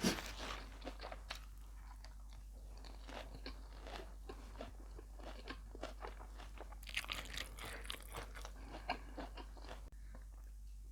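A person chewing and crunching mouthfuls of a laab beef meal close to the microphone: a steady run of small crunches and mouth sounds, busiest about seven to nine seconds in.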